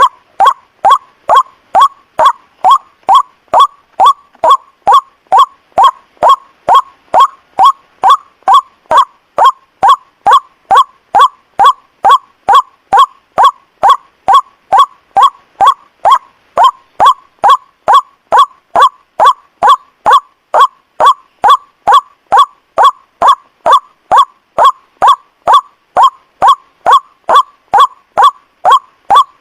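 White-breasted waterhen (ruak-ruak) lure call: a short honking 'kwak' repeated evenly about two and a half times a second in a steady loop, each call dipping slightly in pitch.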